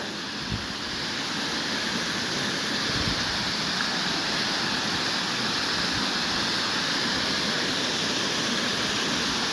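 Rain-swollen waterfall rushing steadily. It grows a little louder over the first few seconds, then holds even.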